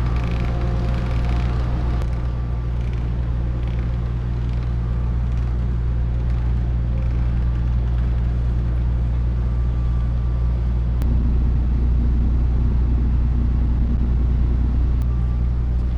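Steady low rumble of a heavy engine running, with a deeper, rougher layer coming in about eleven seconds in.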